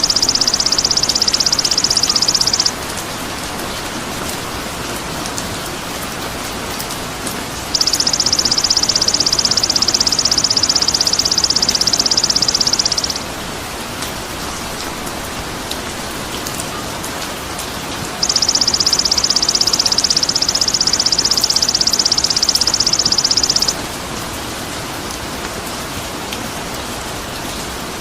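A high, buzzing trill from a bird-training call recording, repeated in three bouts of about five seconds each with pauses between, over a steady rain-like hiss.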